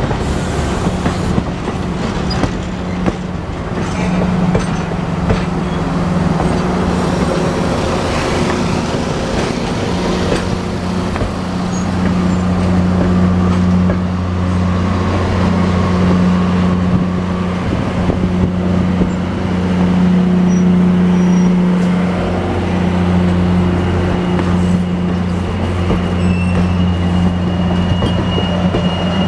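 Diesel locomotive engine running with a steady low hum as the train rolls on the rails; the hum grows stronger and deeper about twelve seconds in. A thin high wheel squeal comes in near the end.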